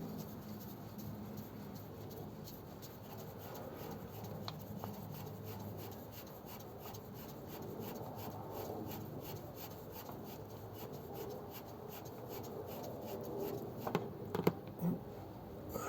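Hands unscrewing an oil filter, with steady rubbing and scraping of the filter canister. A few sharp knocks come near the end.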